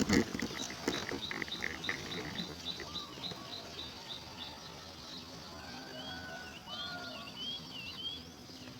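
Small birds chirping: a rapid, evenly spaced run of short high chirps for the first few seconds, then a brief warbling phrase of gliding notes near the end. A few sharp rustling clicks sound right at the start.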